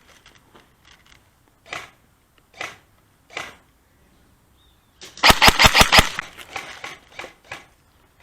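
Airsoft guns firing: three single shots about a second apart, then a short, loud, rapid burst of about six shots about five seconds in, followed by a few fainter scattered shots.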